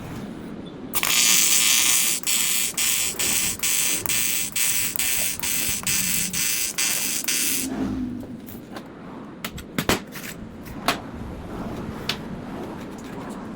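AC TIG welding arc on aluminium: a loud buzzing hiss that swells and dips about three times a second, starting about a second in and cutting off a little past halfway. A few sharp clicks follow.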